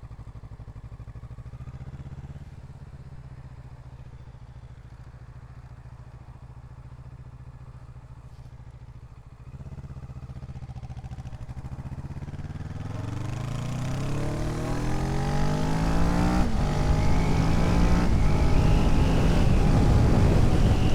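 Motorcycle engine idling steadily for about ten seconds, then pulling away: the revs climb, break once for a gear change, and settle into steady riding with rising wind noise on the microphone.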